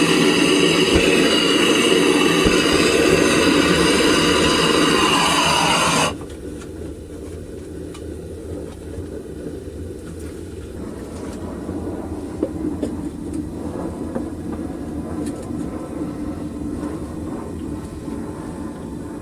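Homemade propane furnace burner running with a loud, steady rushing roar, which drops abruptly about six seconds in to a quieter, deeper steady roar.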